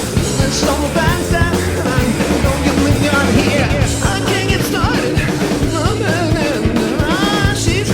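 Hard rock recording with full band: electric guitar, bass and drums playing at a steady level, with singing.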